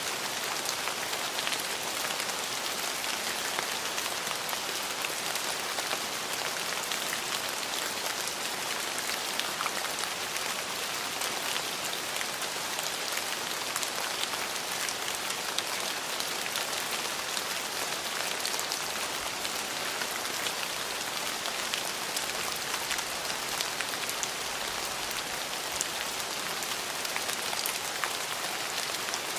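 Steady, even rain: a dense hiss of falling rain with many fine drop ticks, and no thunder.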